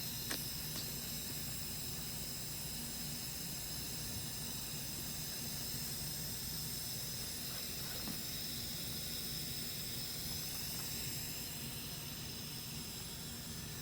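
Steady hiss with a low hum underneath, and one faint click just after the start.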